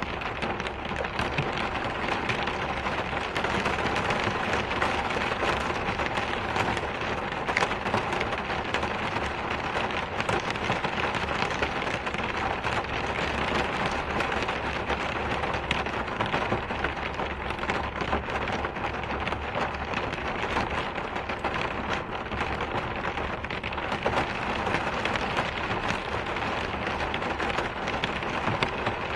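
Steady rain falling: an even, unbroken hiss of drops with fine pattering detail throughout.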